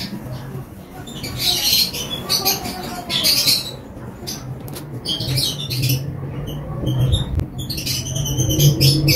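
A small bird chirping and squawking in short shrill bursts over a low steady hum, with the hum louder in the second half.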